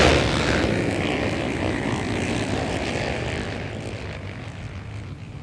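A pack of racing quads (ATVs) running hard together, the engines' combined drone fading steadily as the field pulls away down the track.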